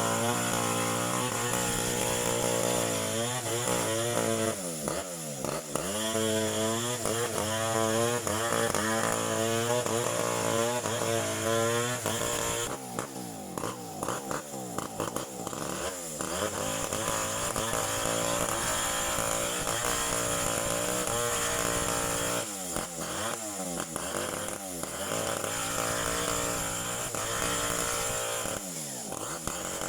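Two-stroke chainsaw engine running hard, its pitch repeatedly dropping and climbing back as the throttle is eased and opened again, with a lower, rougher stretch a little before the middle.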